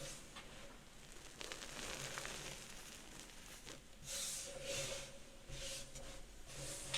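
Gym chalk being crushed and squeezed by hand: soft crumbling at first, then from about four seconds in a run of crunchy squeezes, roughly two a second.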